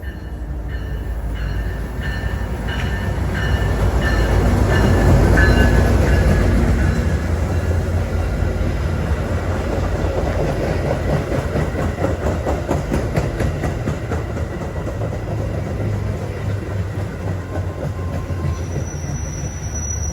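Metra commuter train pulling into the station: the locomotive's diesel rumble and the passing cars grow loudest about five seconds in, then the wheels keep clacking steadily over the rail joints. A thin high squeal starts near the end.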